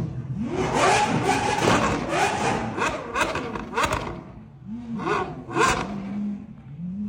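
Supercar engine revved in a rapid series of throttle blips, its pitch jumping up and falling back again and again. It settles to a steady idle near the end.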